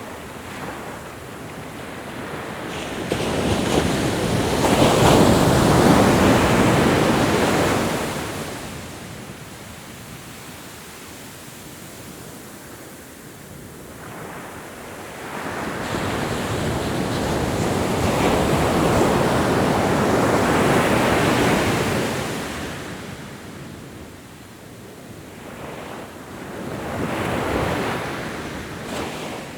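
Ocean waves breaking and washing up a shore, in three swells that rise and fall away: a loud one about five seconds in, a long one in the middle, and a smaller one near the end.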